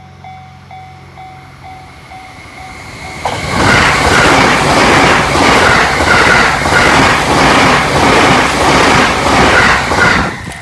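Level-crossing warning bell ringing in a steady repeating beat, then from about three seconds in a train passes the crossing at high speed, its wheels clattering in a quick, even rhythm over the rails. It is loud and cuts off suddenly near the end.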